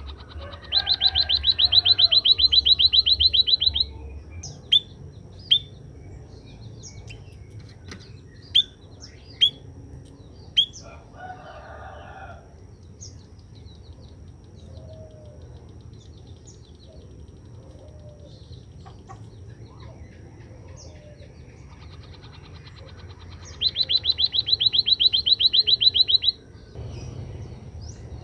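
White-headed munia (emprit kaji) calling: two loud, rapid trills of many quick pulses, one about a second in and one near the end, with a few short, sharp downward chirps scattered between them. A faint steady high whine runs under the calls.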